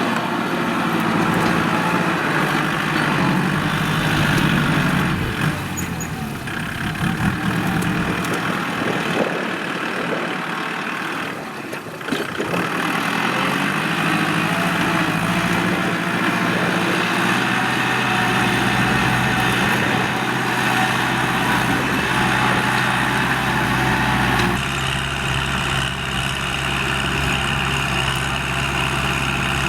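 Kubota L4708SP tractor's diesel engine running steadily, its pitch shifting several times as load and throttle change.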